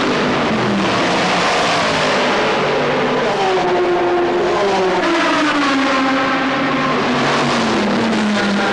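GT racing cars at full speed on track, with several engine notes overlapping and sliding down in pitch as the cars go past and away.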